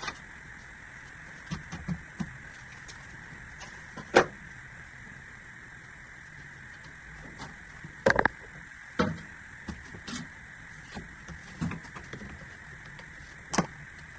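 Irregular knocks and clunks of objects being handled, a dozen or so spread out, with a sharp one about four seconds in and a quick cluster about eight seconds in, over a steady faint hiss.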